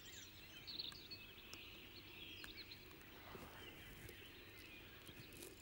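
Near silence: faint outdoor ambience with faint birdsong.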